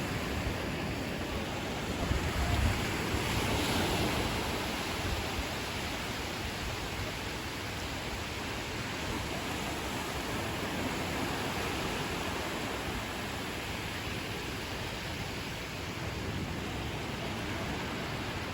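Ocean surf washing onto a beach in a steady wash, with a louder swell of a breaking wave about three seconds in.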